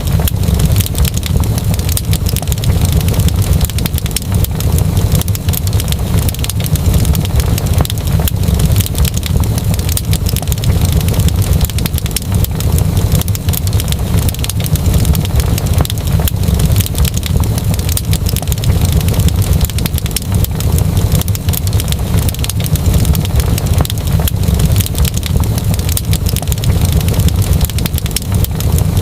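Wood fire crackling in a fireplace: a dense, unbroken run of small pops and snaps over a steady low rumble.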